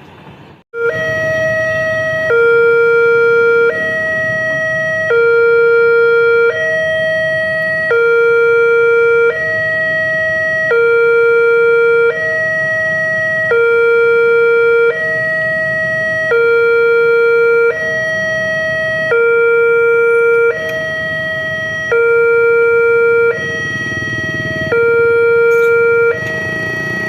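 Railway level-crossing warning siren sounding a loud two-tone electronic alarm, alternating between a lower and a higher note about every second and a half; it starts abruptly about a second in.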